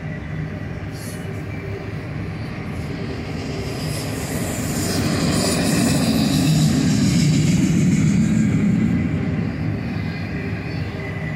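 Freight train of autorack cars rolling past: a steady low rumble of wheels on rail that swells louder midway and eases off toward the end.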